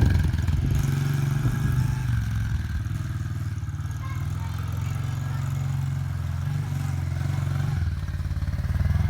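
Honda 110 dirt bike's small four-stroke single-cylinder engine running at a fairly steady speed, with small changes in pitch and level near the start and again near the end.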